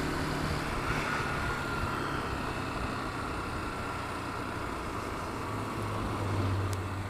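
Motorcycle engine running steadily under a haze of wind and road noise, its low hum growing a little stronger near the end.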